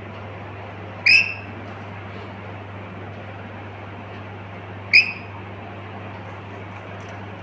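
Pet lory parrot giving two short shrill calls, about four seconds apart, over a steady low hum like an air conditioner running.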